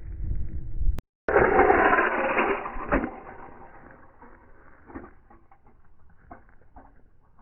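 Slow-motion crash of 1/64 scale diecast toy cars: after a sudden cut, a loud crash noise about a second in that dies away over a couple of seconds, then scattered small clicks and knocks as the pieces settle.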